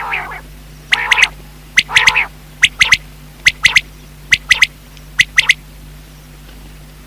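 Common quail calling. A few harsh, raspy calls come in the first two seconds, among sharp, clipped notes in groups of two or three that repeat about once a second and stop about five and a half seconds in.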